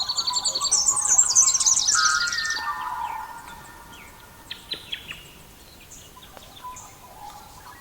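Songbirds singing: a fast, high trill through the first two and a half seconds, then a quieter stretch with a few short chirps.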